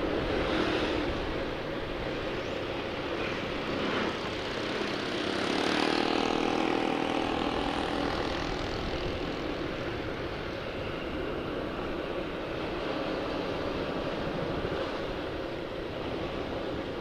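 Riding a motorcycle: wind rushing over the external microphone mixed with engine hum and road noise. About six seconds in, a pitched engine note grows louder and holds for a couple of seconds before easing back into the wind noise.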